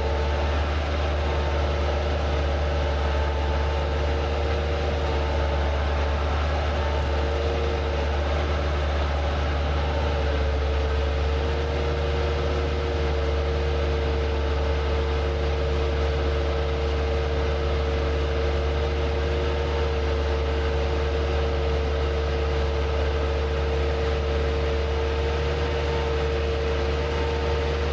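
Skid steer engine running at a steady speed, a low hum with a steady higher tone riding over it.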